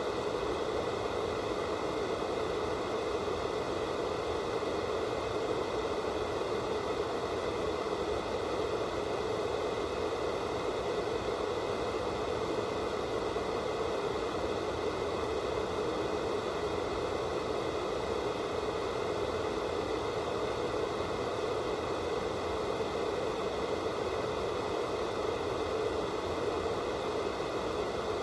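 Analog TV static: the steady hiss of an untuned television receiving no signal, even and unchanging, with most of its weight in the low-middle range.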